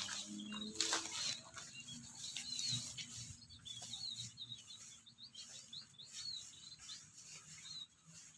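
Small birds chirping with short, repeated high chirps, with a brief rustle about a second in.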